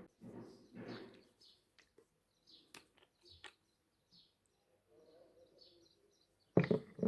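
Small birds chirping in short repeated calls, with soft clicks and rustles of things being handled, and a louder double knock near the end.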